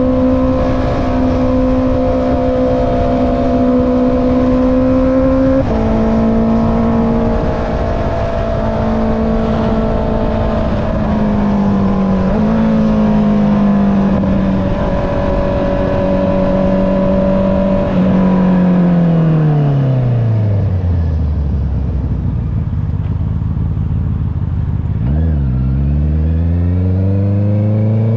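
Honda CB650R inline-four with an Akrapovic exhaust, heard from the rider's seat with wind rush: cruising at steady revs with a couple of small pitch changes, then revs falling away as the bike slows to idle about twenty seconds in, before the pitch rises again as it pulls away near the end.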